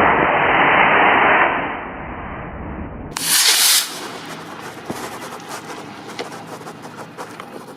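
Model rocket motor burning after ignition: a loud, steady rush that fades away about two seconds in. About three seconds in comes a brief loud burst of noise, then faint background with a few scattered ticks.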